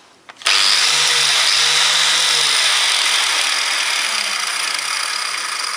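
Electric angle grinder switched on about half a second in and running steadily at speed.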